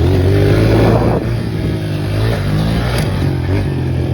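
Four-stroke dirt bike engine running under riding, its pitch rising and falling as the throttle is opened and closed, with a brief drop about a second in.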